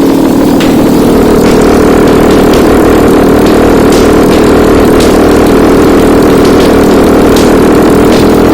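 Toyota 2GR-FE 3.5-litre V6 engine running steadily on a test stand.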